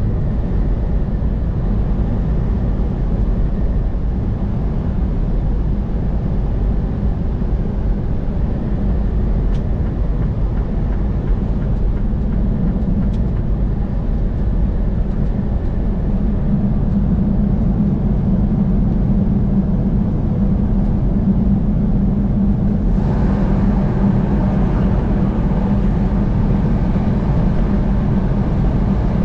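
Car driving at highway speed: steady road and engine noise, which turns brighter and slightly louder about 23 seconds in.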